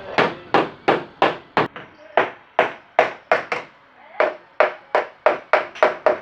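Repeated hand-hammer blows on metal, about three a second with brief pauses, each with a short ring.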